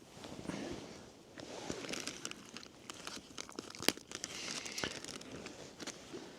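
Plastic food packaging crinkling and being torn open by hand, with scattered sharp clicks and a louder snap about four seconds in.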